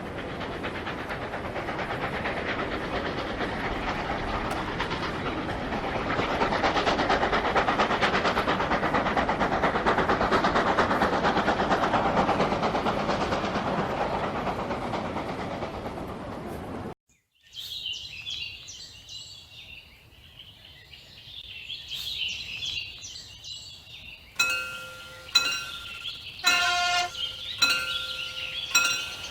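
A train passing through a station without stopping: a broad rail rumble that swells to a peak in the middle and fades, then cuts off abruptly. After it come quieter high chirps and several sharp clinks with short ringing tones near the end.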